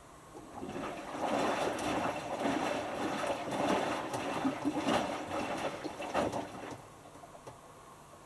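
Hotpoint Futura HF8B593 washing machine's drum turning for a tumble of about six seconds, a small load of T-shirts sloshing and swishing in the water. The tumble starts after about half a second and stops near seven seconds in. This is the cool-down stage of the whites wash.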